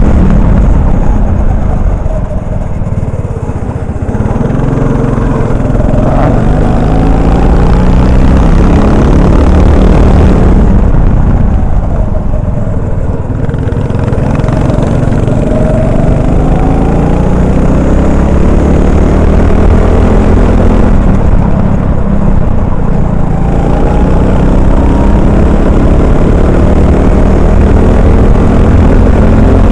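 Honda 390 single-cylinder four-stroke kart engine heard onboard at racing speed, revving up in long rising sweeps and dropping off three times as the throttle is lifted for corners.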